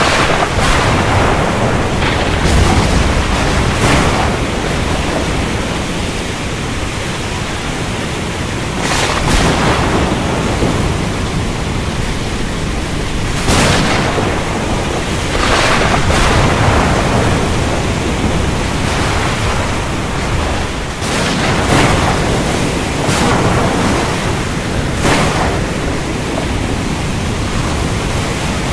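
Thunderstorm: heavy rain and wind making a steady loud roar, broken by a dozen or so sudden sharp crashes of thunder.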